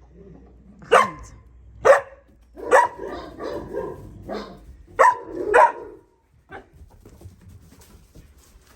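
A young puppy barking in short, sharp barks, about five loud ones with quieter yelps between them. The barking stops about six seconds in.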